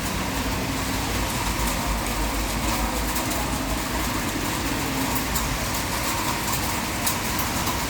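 Heavy rain pelting down in a steady roar, with scattered sharp ticks of drops striking close by.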